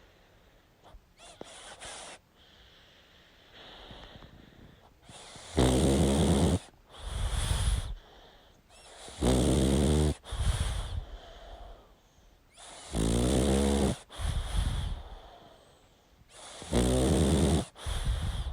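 Pug snoring in its sleep: after a few seconds of quieter breathing, four loud buzzing snores come at about three-and-a-half-second intervals, each followed by a shorter, noisier breath.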